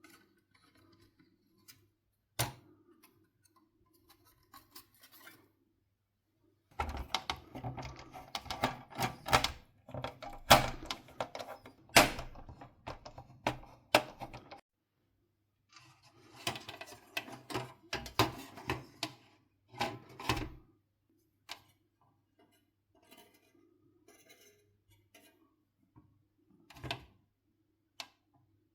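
Hard plastic and metal parts and small tools being handled during a PlayStation 4 teardown: scattered single clicks, then two busy stretches of clicking and clattering lasting several seconds each, then a few clicks more.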